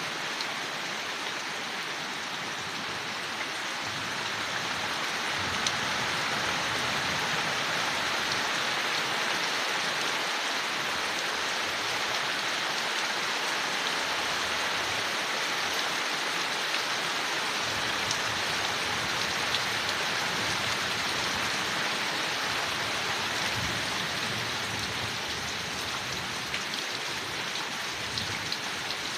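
Steady rain falling on leaves, a continuous even patter with occasional individual drops, swelling slightly for a while before easing back.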